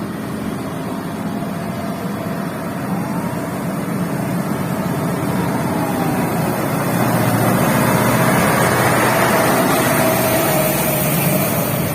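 A heavy vehicle's engine running close by, growing louder over several seconds with its pitch rising and falling, then easing near the end.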